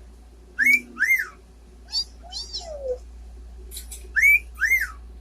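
Pet parrot whistling short rising-and-falling calls. A loud pair comes about half a second in, softer chirps follow around two to three seconds, and another loud pair comes just after four seconds.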